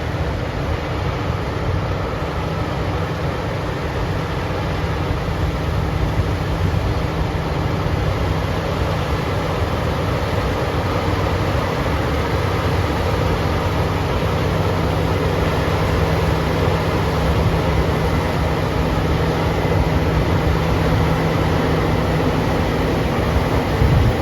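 Heavy harvest machinery running steadily, a combine or tractor engine with a constant hum under broad mechanical noise, slowly growing louder, with a short knock near the end.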